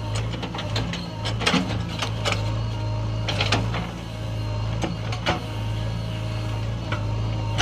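Diesel engine of a backhoe loader running steadily, with a string of sharp irregular clanks and knocks from the bucket and loading.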